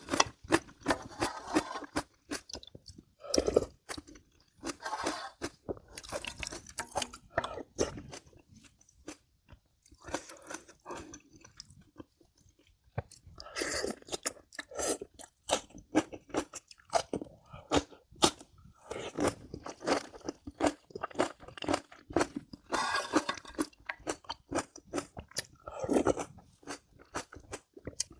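Close-miked eating: chewing with many short, sharp crunches, as of crisp cabbage kimchi eaten with soaked scorched rice. The crunching comes in runs, with brief quieter pauses between mouthfuls.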